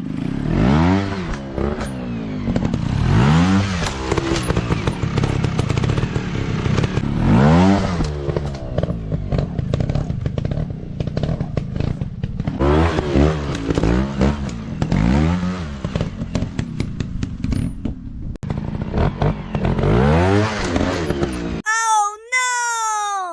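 150cc motocross bike engine revving up and falling back again and again as it is ridden over rough ground, with clatter and knocks from the bike. Near the end it cuts abruptly to a short electronic tone that slides down and back up.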